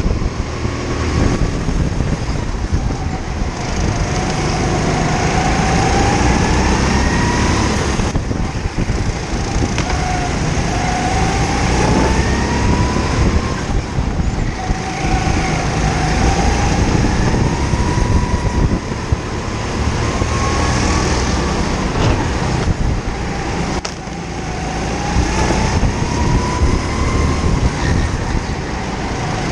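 Kart engine heard onboard over several laps, its pitch climbing along each straight and falling back as the throttle is lifted for the corners, again and again.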